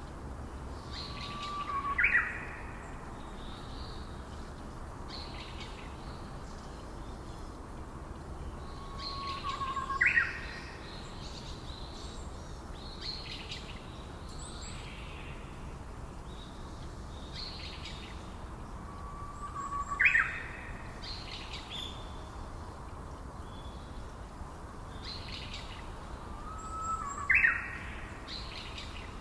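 Eastern whipbird calling four times, each call a held whistle that ends in a sharp upward whip-crack, spaced seven to ten seconds apart. Softer chirps of other birds sound in between.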